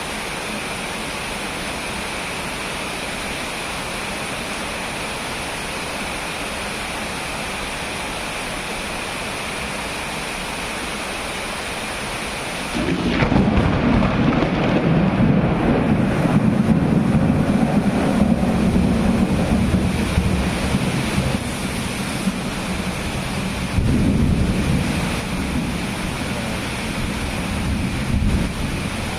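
Steady rain, then about halfway through a sudden crack of thunder that rolls on as a deep rumble for several seconds, with a second swell of rumbling a few seconds later.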